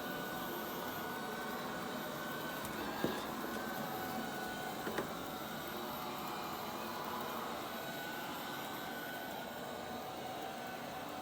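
Robot vacuum running steadily, a whirr with a faint high tone, with two light knocks about three and five seconds in.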